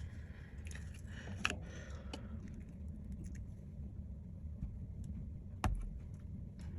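Light clicks and taps of parts and tools being handled on a workbench over a steady low hum, with a sharper knock about five and a half seconds in.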